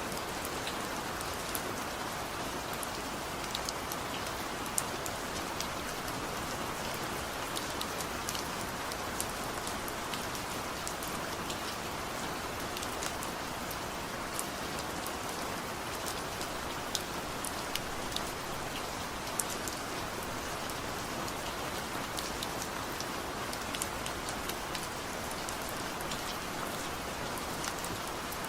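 Steady rain falling, an even hiss of rain on surfaces with scattered individual drops ticking sharply on top, no thunder.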